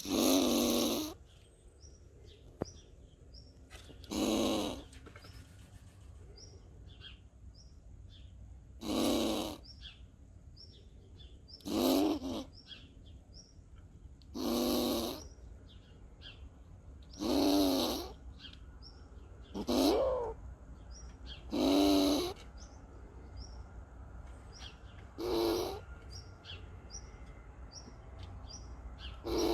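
Eurasian red squirrel making defensive growling calls, about ten of them, each about a second long and a few seconds apart: the sound of an agitated squirrel. Faint short high chirps fall between the calls.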